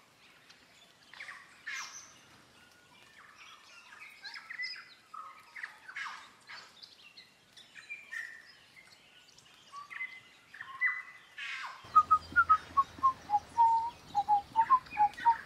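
Birdsong: assorted chirps and short calls, then about three-quarters of the way through a louder run of clear whistled notes, several a second, stepping down in pitch and then back up.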